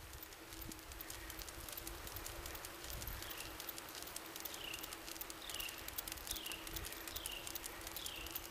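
Bicycle riding along a path: a low rumble from the tyres with a faint steady hum and scattered clicks, and from a few seconds in a short high squeak repeating about every two-thirds of a second.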